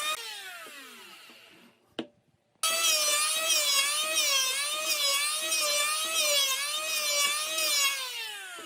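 Small electric power tool running with a whine that wobbles in pitch, then switched off so the motor spins down with a falling whine. After a sharp click it starts again abruptly and runs until near the end, when it spins down again.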